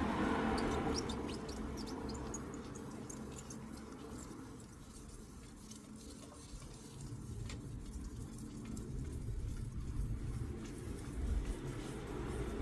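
Outdoor background: a steady low rumble of distant traffic, with a few faint high bird chirps in the first few seconds.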